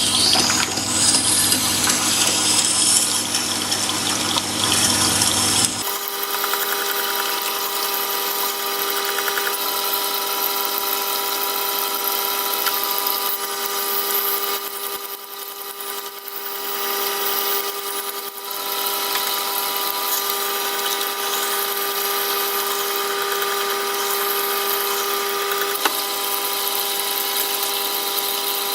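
Jet water-cooled whetstone sharpening machine running with a steady motor hum. About six seconds in, a louder hissing sound with a low rumble cuts off abruptly, leaving the steady hum.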